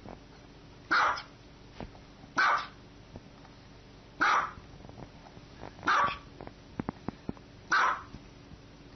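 A small dog barking: five single barks spaced about a second and a half to two seconds apart.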